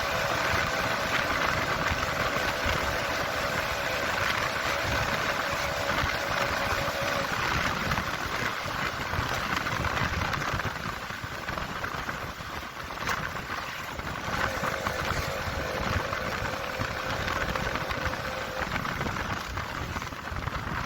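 KTM Duke 200's single-cylinder engine running under way, with a steady rushing noise. A wavering engine tone fades out about seven seconds in and comes back for a few seconds later on.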